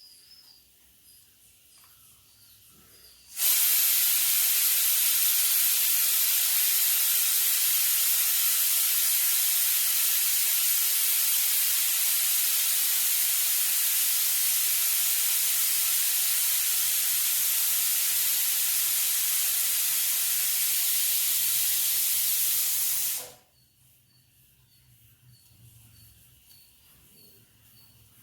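A loud, even hiss starts abruptly about three seconds in, holds steady for about twenty seconds and cuts off suddenly. Faint, regularly repeating chirps are heard before and after it.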